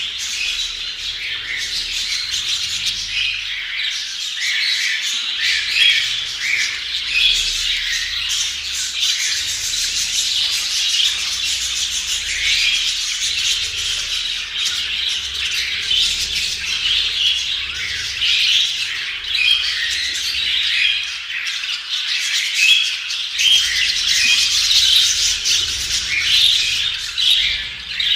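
Several budgerigars chattering and squawking, many short calls overlapping without a break.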